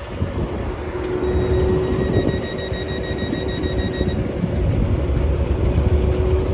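ScotRail diesel multiple-unit train running at the platform with a steady low engine rumble and hum. From about one second in to about four seconds in, a rapid high-pitched beeping sounds, typical of the door-closing warning before departure.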